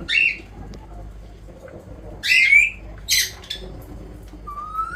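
Indian ringneck parrot giving short squawking calls: one just after the start, two more about halfway through, and a call that rises in pitch near the end.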